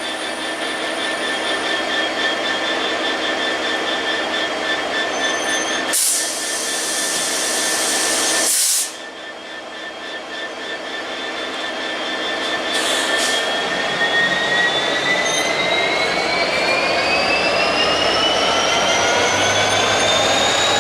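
Electric train's traction motors whining, the tones climbing steadily in pitch as it accelerates from about the middle onward. Two short loud rushes of noise come at about six and eight and a half seconds.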